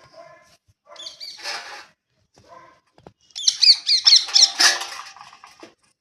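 Birds calling: a short call about a second in, then a loud, fast run of repeated high notes from about three and a half to five seconds in.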